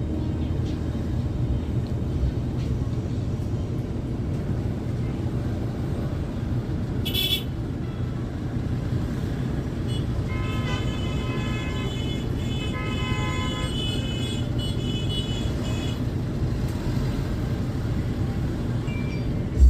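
Steady low rumble of a bus's engine and road noise, with a short high beep about seven seconds in and a vehicle horn tooting several times from about ten to sixteen seconds in.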